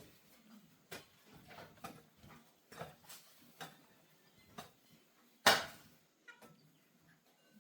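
A series of irregular short knocks and scrapes, with one louder, longer strike about five and a half seconds in.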